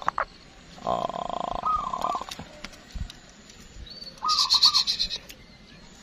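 Birds calling: a call about a second in that ends in a few quick up-and-down notes, then a higher, brighter chirping call at about four seconds.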